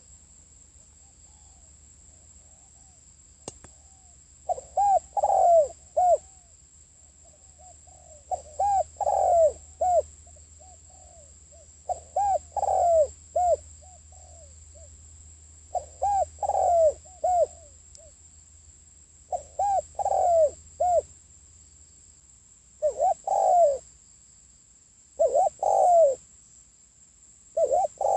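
A decoy spotted dove cooing, giving short phrases of three or four notes, one phrase every three to four seconds. This is the territorial call used to lure wild doves.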